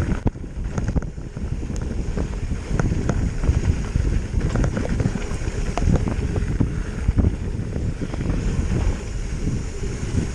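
Wind buffeting the microphone of a camera on a mountain bike riding a dirt trail, over the steady noise of the tyres. Frequent short clicks and rattles come from the bike over rough ground.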